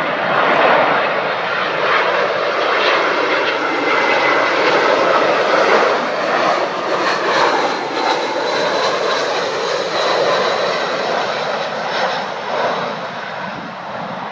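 Airliner's engines running loud with a thin whine on landing, the noise building, strongest mid-way, then easing off near the end.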